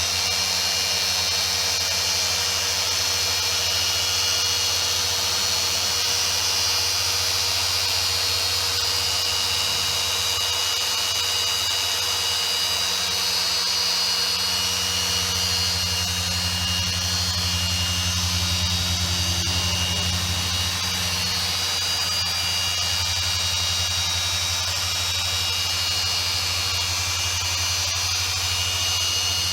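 Electric machine polisher running steadily on car paint during a heavy-cut paint-correction pass: a constant motor whine over a low hum.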